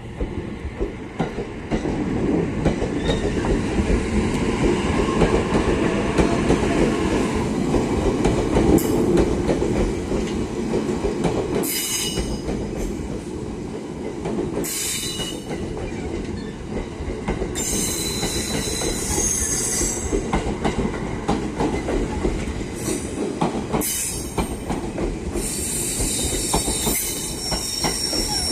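E657 series electric multiple unit moving slowly out of a storage siding: a steady rumble of wheels and running gear with a fast patter of clicks over rail joints and points. High-pitched wheel squeals break in from about twelve seconds in, short at first, then longer and more frequent near the end.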